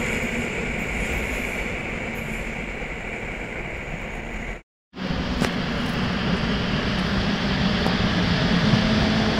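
Passenger train pulling away along the platform, its running noise slowly fading. After a brief cut to silence just before halfway, another train approaches and grows steadily louder.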